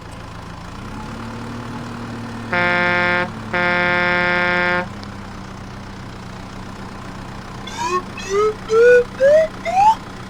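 Cartoon vehicle sound effects: a steady low engine hum, two horn honks, the second longer, then a quick run of about five short rising whistles near the end.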